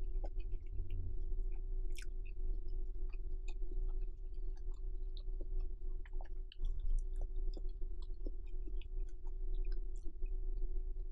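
A woman chewing a mouthful of stir-fried instant noodles with her mouth closed, with small wet mouth clicks scattered throughout, over a steady low hum.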